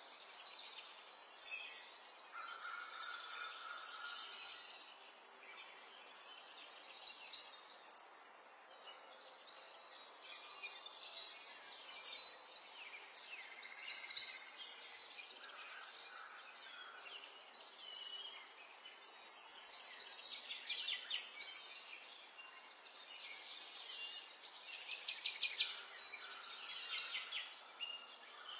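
Several kinds of small songbirds chirping and trilling over one another in quick, high-pitched phrases that swell and fade every few seconds, over a faint steady background hiss.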